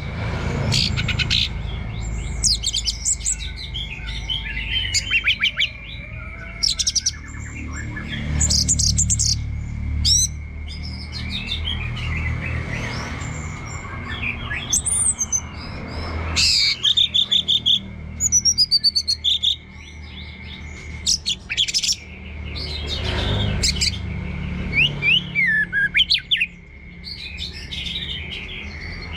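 Orange-headed thrush singing a long, varied song of quick chirps, whistled phrases and trills, with short pauses between bursts.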